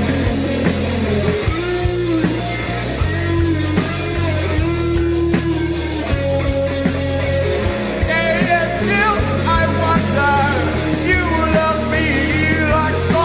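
Rock band playing: electric guitar, bass and drums, with a high melodic lead line bending and wavering in pitch from about eight seconds in.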